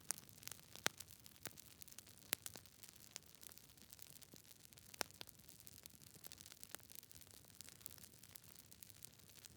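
Campfire crackling: irregular sharp pops and snaps of burning wood over a faint hiss, with a few louder pops about a second in, midway and halfway through.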